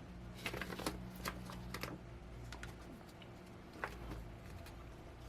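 Small mounting screws and metal hardware being sorted by hand, a quick run of light clicks and clinks in the first couple of seconds and one more click later.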